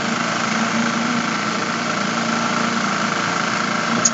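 A construction machine's engine running steadily, with a brief sharp click near the end.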